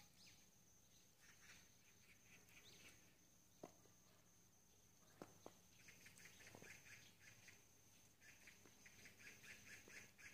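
Faint chirping of small birds, in quick runs of short notes that grow busier about six seconds in and again near the end, with a few soft clicks.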